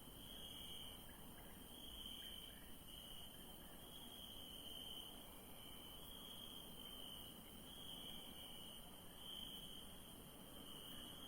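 Night crickets chirping faintly: a steady high-pitched trill that swells and fades about once a second.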